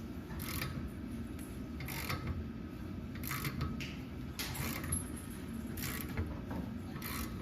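Hand ratchet clicking in short strokes, about one every second and a half, as it turns a ball joint press to force a worn ball joint out of a Jeep's steering knuckle. A steady low hum runs underneath.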